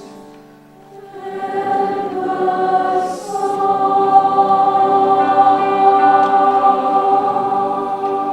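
Large choir of about 200 voices singing long held chords. It comes in softly about a second in, breaks briefly near three seconds, then holds a louder, fuller chord.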